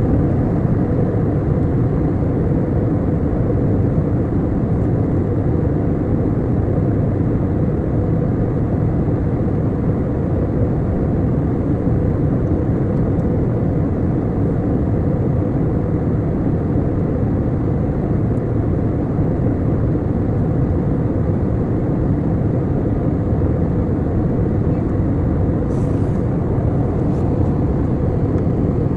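Airliner cabin noise in flight: the steady low roar of the engines and rushing air, unchanging throughout.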